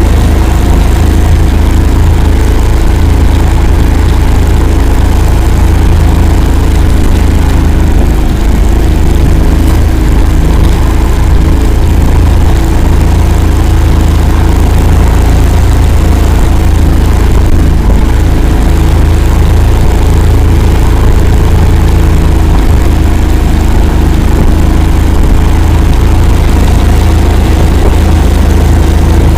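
Engine of the Akula all-terrain swamp vehicle running loudly and steadily with a deep low rumble as it drives.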